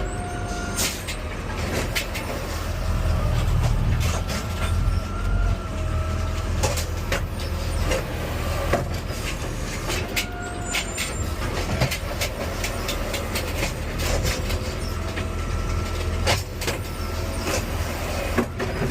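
Garbage truck engine running with a steady low rumble, with scattered clicks and knocks and a faint wavering whine that comes and goes.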